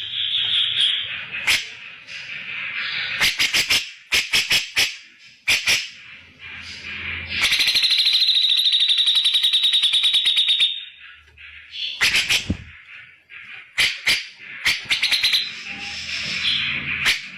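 Grey-cheeked bulbul (cucak jenggot) calling loudly in harsh chattering bursts broken by sharp clicks, with one long, rapid buzzing trill of about three seconds in the middle.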